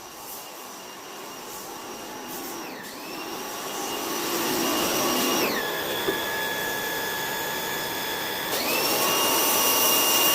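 A vacuum-type cleaning machine's electric motor running with a whine and a hiss, growing louder over the first few seconds. Its pitch dips briefly about three seconds in, drops to a lower note about five and a half seconds in, and climbs back up about eight and a half seconds in.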